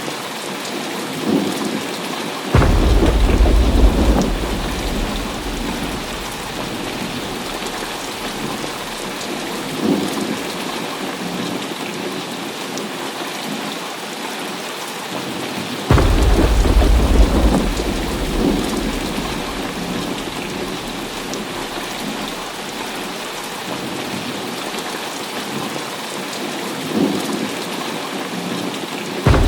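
Heavy rain falling steadily, with thunder cracking loudly and suddenly twice, about two and a half seconds in and again about sixteen seconds in, each rumbling away over several seconds. Softer rolls of thunder come in between, and another loud crack starts right at the end.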